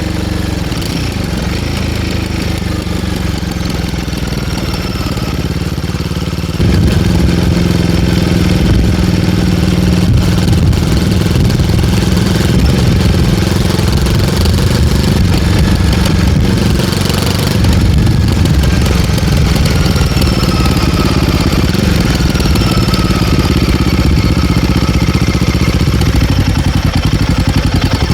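Royal Enfield Guerrilla 450's single-cylinder engine running, its exhaust passing through an MTG link pipe fitted in place of the stock catalytic converter box. The engine note drifts up and down in pitch and gets louder about seven seconds in.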